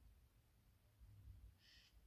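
Near silence: a faint low rumble, with one brief faint high chirp near the end.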